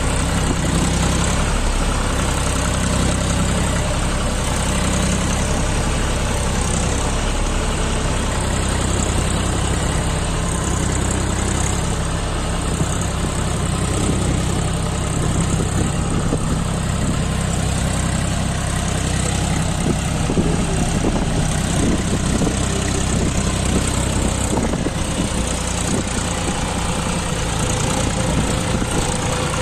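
John Deere 5105 tractor's three-cylinder diesel engine running steadily.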